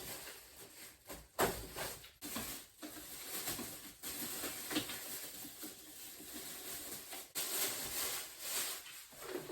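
Irregular rustling and scraping of packaging, with a few light knocks, as a new espresso machine is unpacked from its box.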